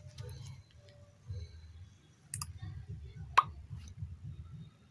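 A few small clicks and taps, the loudest two about a second apart near the middle, over a faint, intermittent low rumble.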